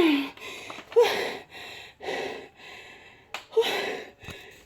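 A woman breathing hard and audibly after dancing exercise, loud gasping breaths about once a second: she is out of breath.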